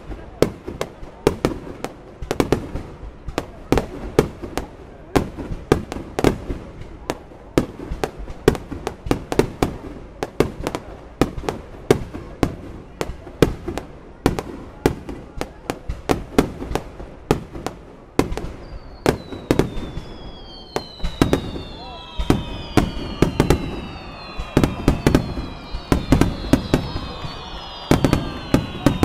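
Fireworks display: a rapid barrage of shell bursts and bangs, several a second. From about two-thirds of the way through, a chorus of overlapping falling whistles from whistling fireworks joins the bangs.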